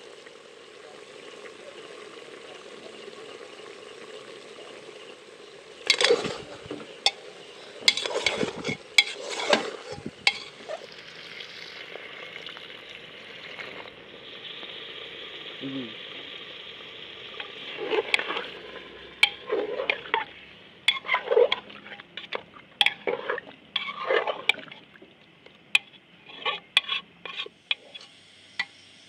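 Chicken frying with a steady sizzle in an aluminium pressure-cooker pot. Twice, a metal spoon scrapes and clacks against the pot as the pieces are stirred, first about six seconds in and again for most of the second half.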